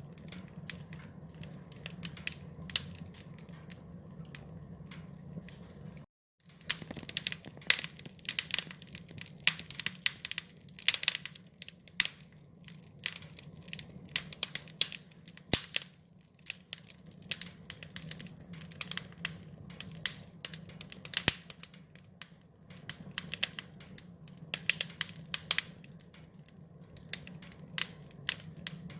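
Wood fire crackling, with dense irregular sharp pops and snaps over a steady low rumble. The sound cuts out completely for a moment about six seconds in, and the popping is busier after that.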